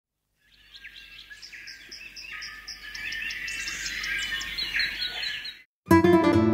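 Birds chirping and calling, many short repeated calls fading in and growing louder, then cutting off suddenly. Near the end, acoustic guitar music starts.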